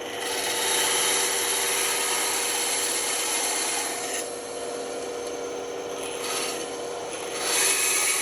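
Band saw running with a steady hum as its blade cuts straight through wood. The cutting noise eases about four seconds in and swells again near the end.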